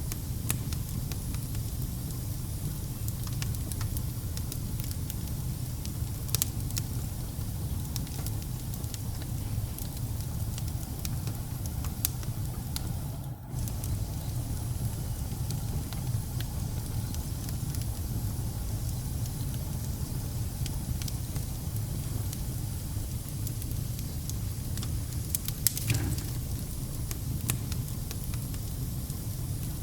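Wood fire burning in a fireplace: a steady low rumble of flames with scattered sharp crackles and pops, a few louder ones about six seconds in, around twelve seconds and near the end.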